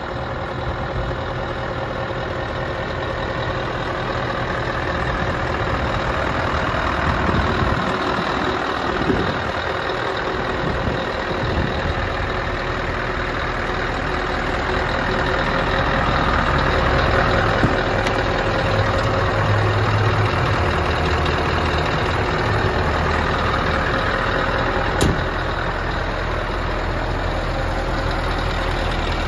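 Scania R560's V8 diesel engine idling steadily, with a single sharp click near the end.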